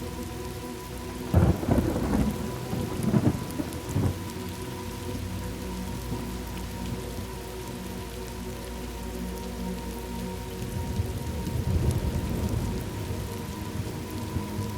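Thunderstorm ambience: steady rain, with a sharp crack of thunder about a second and a half in that rumbles on for a couple of seconds. A second, lower roll of thunder comes around twelve seconds in.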